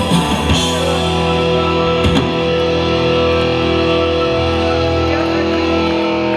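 A rock song's closing chord: electric guitars hold a sustained chord that rings on, after a burst of drumming in the first half-second and one sharp drum hit about two seconds in.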